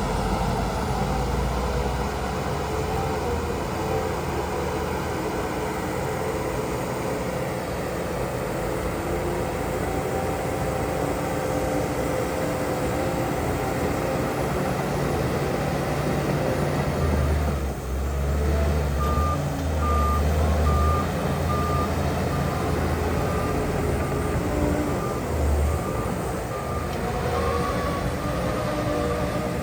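Heavy diesel earthmoving machinery running steadily, with the engine rumble swelling for a few seconds past the middle. A reversing alarm beeps at an even pace, a little under twice a second, through the last third.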